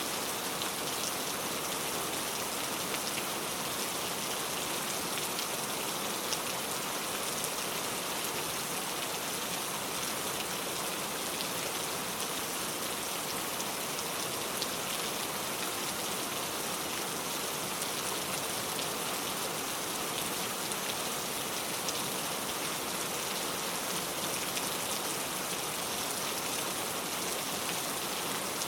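Steady rain falling on a surface, with fine scattered drop ticks over an even hiss.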